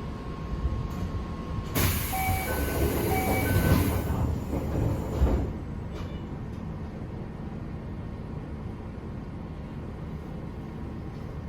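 Running noise inside a Toei 5300 series train car under way: a steady rumble with a faint steady whine. About two seconds in, a much louder rush of noise lasts some three seconds, with a short ringing tone heard twice.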